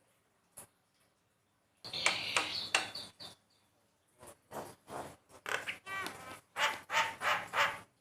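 Javan myna (jalak kebo) calling: a run of harsh, rasping calls mixed with short nasal pitched notes, starting about two seconds in after a single faint click.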